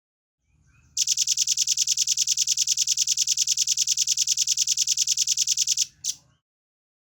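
Velvet-fronted nuthatch (rambatan paruh merah) giving a long, rapid, high-pitched trill of about ten evenly spaced notes a second for nearly five seconds, followed by one short separate note.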